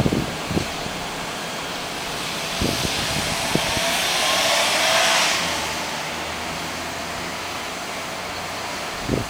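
Freight train wagons rolling past, their wheels knocking over rail joints, under a rushing noise that swells to a peak about five seconds in and then fades.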